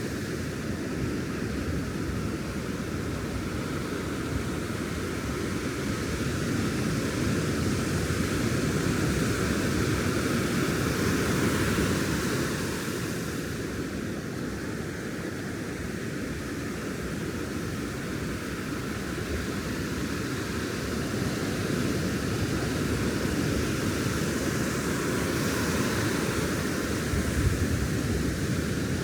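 Ocean surf breaking and washing up the beach, a steady rushing noise that swells twice as waves come in.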